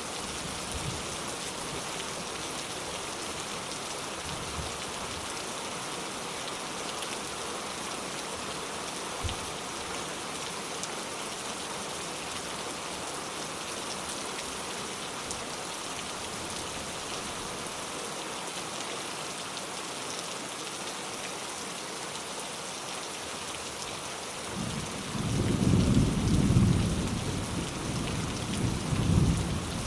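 Steady rain falling. Near the end a low rumble of thunder comes in, swelling twice.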